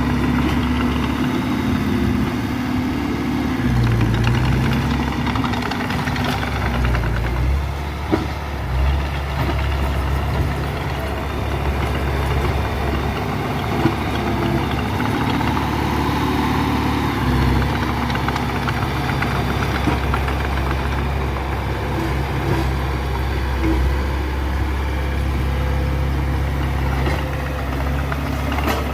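Heavy machinery's diesel engine running steadily, its low hum shifting in level as the load changes, with a few sharp knocks, the clearest about 8 and 14 seconds in.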